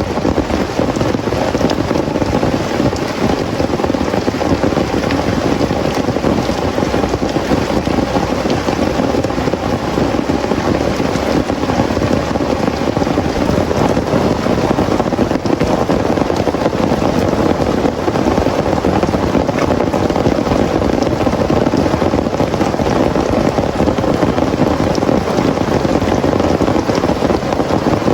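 Heavy rain pouring steadily, a dense continuous patter with no letup.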